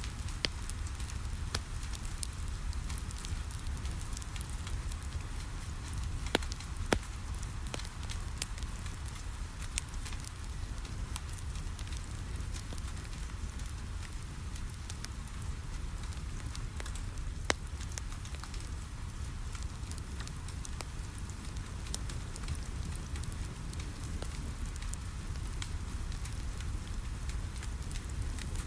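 Wood fire crackling in a fireplace, with scattered sharp pops, over a steady patter of rain and a low rumble.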